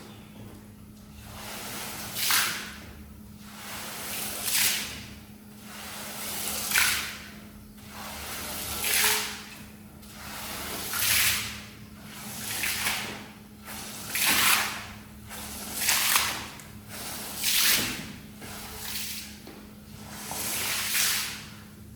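Wet rug being worked with a cleaning tool in long, repeated watery swishing strokes, about one every two seconds, each swelling and fading.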